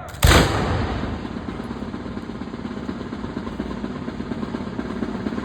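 A sudden loud bump about a quarter second in, then a steady running engine noise with a low hum.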